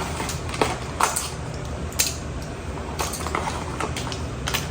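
Dishes and cutlery clinking and being set down, a handful of sharp knocks spaced roughly a second apart, over a steady low hum.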